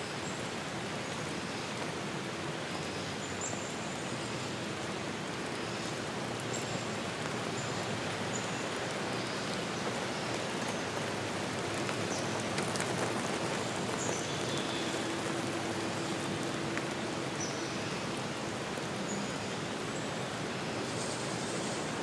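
Forest ambience: a steady, even rushing hiss, with faint short high chirps scattered throughout and a faint low hum now and then.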